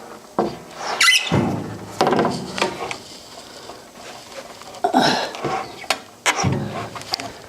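A solid maple tabletop being shifted and seated on its sander jig's center point: irregular scrapes and knocks of wood on wood, with a few brief squeaks.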